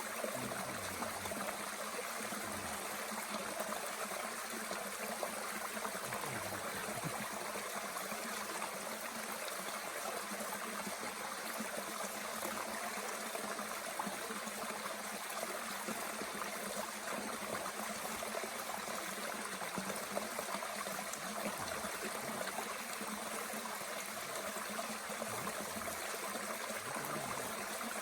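Mountain stream running steadily: an even rush of flowing water.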